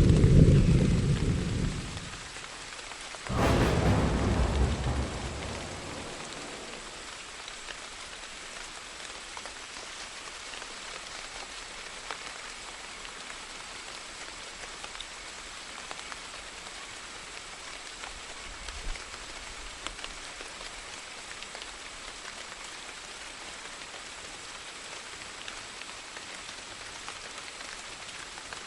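Steady rain with thunder: a rumble dies away over the first two seconds, then a sharp thunderclap about three seconds in rolls on for a couple of seconds before fading into the even hiss of falling rain. A faint distant rumble comes near the middle.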